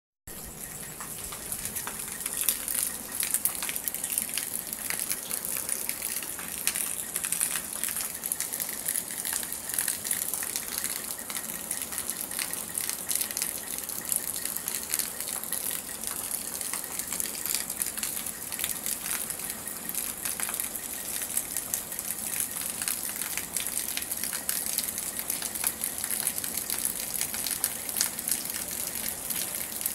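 Heavy rain falling onto standing floodwater: a steady hiss of countless drops splashing into the water.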